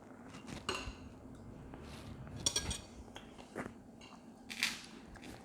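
Scattered clinks and scrapes of utensils against dishes during a meal, with a few light eating sounds, and a longer scrape near the end.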